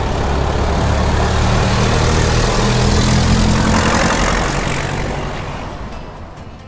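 Classic truck engine driving past, growing louder to a peak about three seconds in and then fading away.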